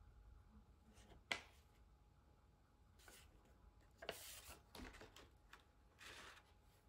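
Faint, brief rustles of folded paper as a paper airplane is handled, with a single sharp click a little over a second in.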